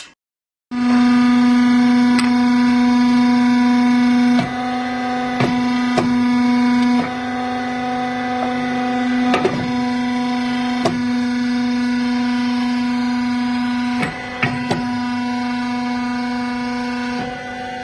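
A machine running with a steady, even-pitched hum and occasional sharp clicks; it starts abruptly just under a second in.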